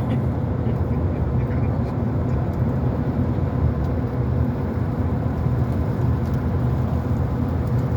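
Train running past or close by: a steady low rumble with a faint constant hum over it, unchanging throughout.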